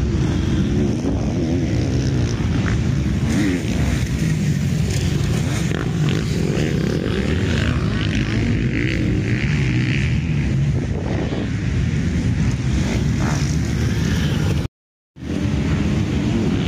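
Motocross bikes racing, their engines revving up and down as they ride the track. The sound cuts out for a moment near the end.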